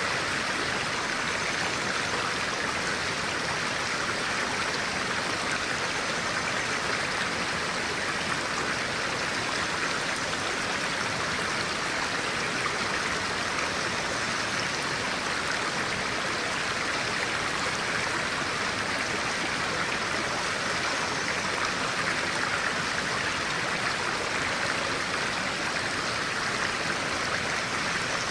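Clear-water stream running steadily, an even, unbroken rush of water.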